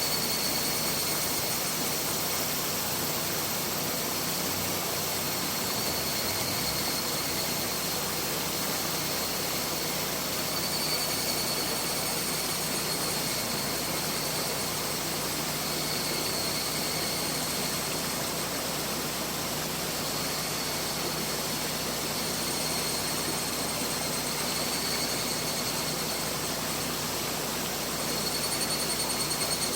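Mountain river flowing, a steady unbroken rush of water, with a faint high-pitched sound that swells and fades now and then above it.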